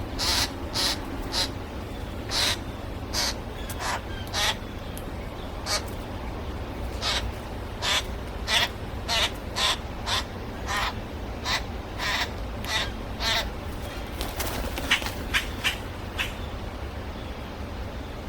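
Birds calling: runs of short, harsh calls, a few a second, with a lull about five seconds in and the calls thinning out near the end, over a steady low rumble.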